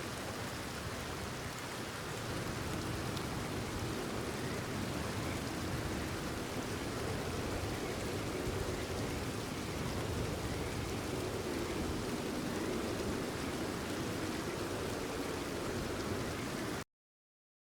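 Steady rain falling, an even dense hiss that gets a little louder about two seconds in and cuts off abruptly near the end.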